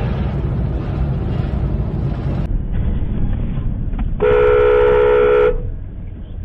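Steady road and wind noise from a moving vehicle, then, after an abrupt change in the sound, a car horn honked once and held for just over a second.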